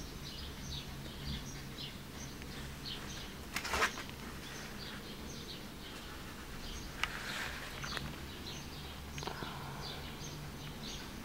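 Short high chirps, like bird calls, repeating irregularly over a low steady hum, with a brief rustle about four seconds in and softer ones later.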